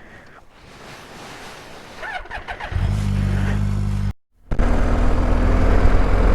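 Motorcycle engine, a BMW R 1250 GS boxer twin, starts about two and a half seconds in and runs with a steady low drum. The sound cuts out for a moment just after four seconds, then comes back louder as the bike rides off, engine running under wind rush.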